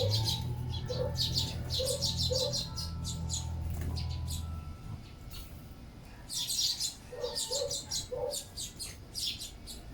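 Sparrows chirping in quick clusters of short high notes while feeding. A low steady hum sits under the first half and stops about halfway through.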